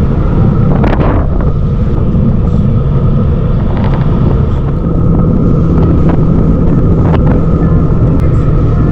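Motorcycle engine running steadily on the move, a continuous low drone with wind buffeting the microphone, and a couple of brief sharp sounds about a second in and again near the end.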